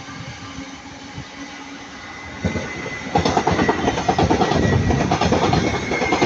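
An electric multiple-unit train passing close by. Its approach rumbles at first and gets louder about two and a half seconds in, then turns into a rapid clatter of wheels over rail joints with a steady high whine over it.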